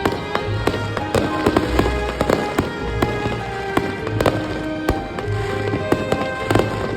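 Fireworks going off in quick succession, many sharp bangs and crackles several times a second, over loud music with held notes and a repeating bass.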